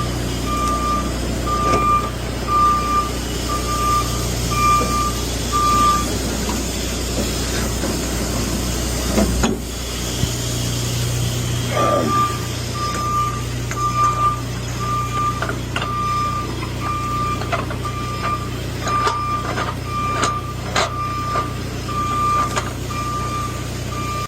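A steady electronic beeping alarm, a bit more than one beep a second, over the constant low drone of a running truck. The beeping stops about six seconds in and starts again about twelve seconds in, and a few sharp clicks come near the end.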